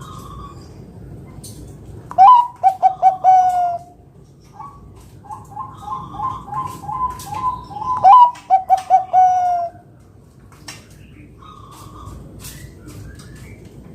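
Zebra dove (Bangkok perkutut) singing: two phrases of rapid, staccato cooing notes. The first is short and loud, with falling notes; the second starts with a run of quieter coos and ends in a louder burst of falling notes.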